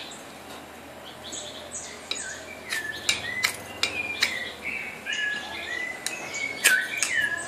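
Birds chirping and calling in a run of short high notes and glides, with a few sharp clicks from the knife being handled.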